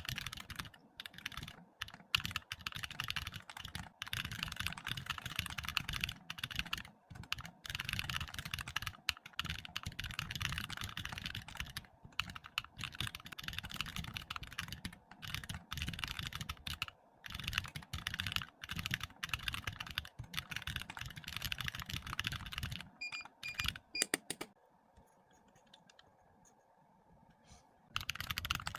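Fast, continuous typing on a computer keyboard, with a pause of about four seconds near the end before the typing starts again.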